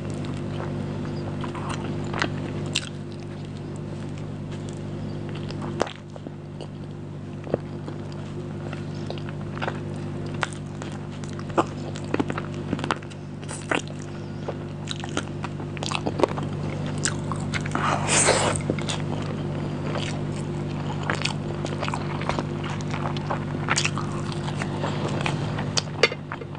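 Close-miked chewing and mouth sounds of a person eating biryani rice by hand: scattered wet smacks and clicks of lips and tongue, with one longer, louder noisy mouth sound about 18 seconds in. A steady low hum runs underneath.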